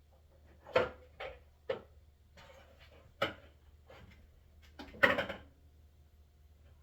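A handful of separate knocks and clunks from hands and tools working on a water heater and its fittings, the loudest a short rattling clatter about five seconds in.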